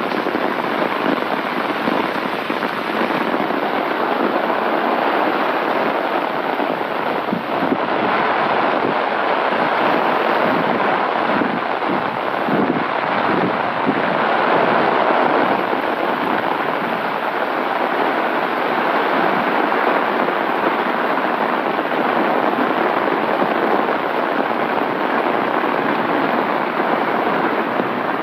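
Heavy rain falling steadily, hitting an umbrella held just above and the ground around it; an even, unbroken hiss.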